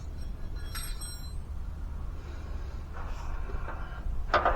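Hand-work handling noises under a pickup truck over a low steady rumble: a brief metallic clink about a second in and a short, louder knock or grunt near the end.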